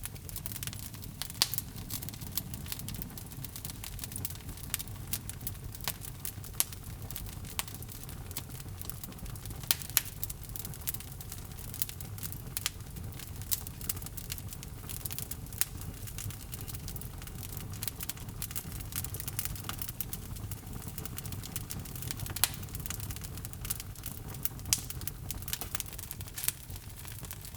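Wood fire in a fireplace crackling, with irregular sharp pops over a low steady rumble of the flames.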